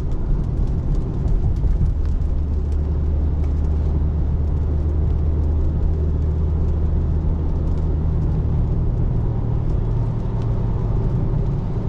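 Inside a 2024 Tesla Model 3 Long Range electric car driving on wet roads: steady tyre and road noise, a low even hum with no engine sound.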